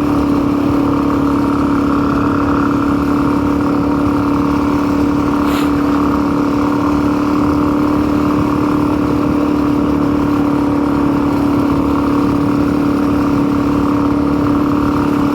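Custom-built motorcycle's engine running at a steady cruising speed, a constant unchanging drone. There is a faint short tick about five and a half seconds in.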